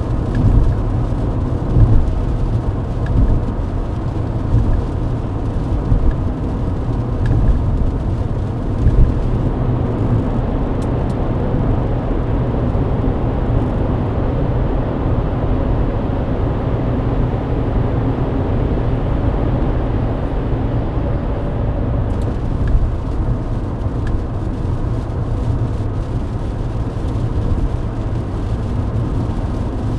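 Mercedes-Benz W124 driving at highway speed on a wet road, heard inside the cabin: a steady low rumble of engine, tyres and road, with a hiss of spray over it. A few bumps come through in the first seconds. The hiss thins out for about twelve seconds in the middle, then returns.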